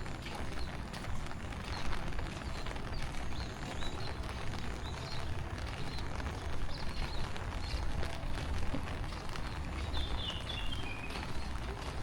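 Rain falling steadily, a dense patter of drops over a low rumble, with small birds chirping throughout and a short falling run of chirps about ten seconds in.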